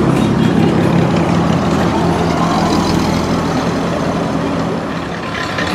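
A car engine running steadily at low revs, with an even low hum.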